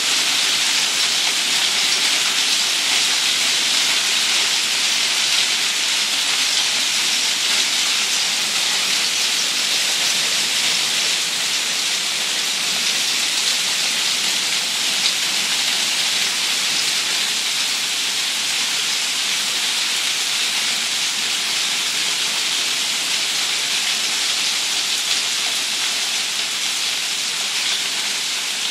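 Heavy downpour during a hailstorm: a steady, dense hiss of rain pelting surfaces, easing slightly over the last part.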